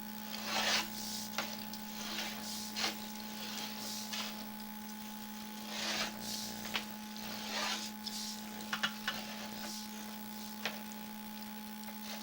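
Sewer inspection camera push rod being worked through the line, giving irregular rubbing and scraping swishes and a few sharp clicks, over a steady electrical hum.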